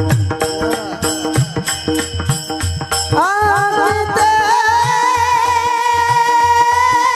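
Devotional kirtan music: a drum and small hand cymbals keep a fast even rhythm. About three seconds in, a singer glides up into one long held note with vibrato while the drum carries on.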